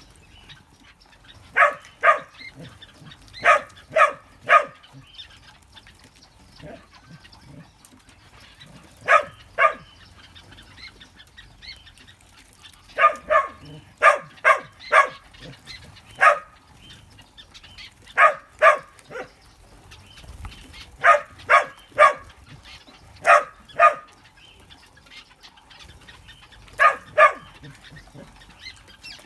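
Aviary birds calling: short, loud calls in quick groups of two to four, repeating every few seconds.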